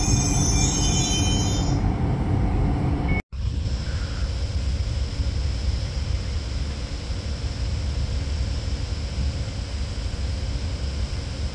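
Double-deck regional train rolling by with its wheels squealing on the rails, the squeal dying away after about two seconds over a steady low rumble. It cuts off suddenly about three seconds in, and a steady low rumble of wind on the microphone follows.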